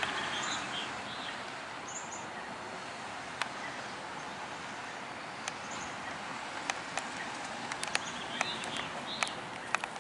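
Outdoor morning ambience: birds chirping now and then over a steady background hiss, with a handful of small sharp clicks in the second half.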